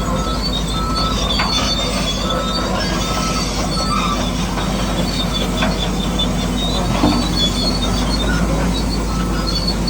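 Bulldozer running with a steady low motor hum and repeated high metallic squealing from its tracks, with a few brief knocks.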